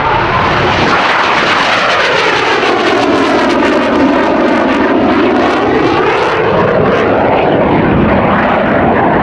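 Blue Angels jet roaring past low on its dirty roll-on takeoff, with its landing gear extended. The engine noise stays loud throughout, with a phasing swoosh that sweeps down and back up as the jet passes.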